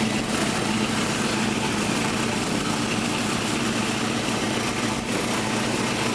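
A car engine idling steadily, with a constant low hum.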